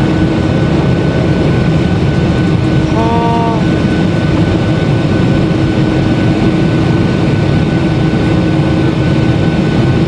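Boeing 737-800's CFM56 jet engines running at take-off power: a loud, steady roar with a steady whine. A short pitched sound is heard about three seconds in.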